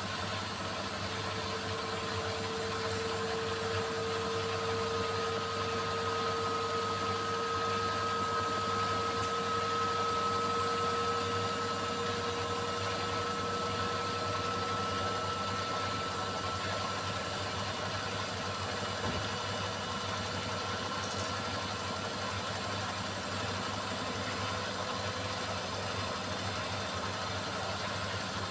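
Beko WMY81283LMB2 washing machine running steadily, its drum spinning with a continuous motor whine that creeps up slightly in pitch over the first ten seconds and then holds.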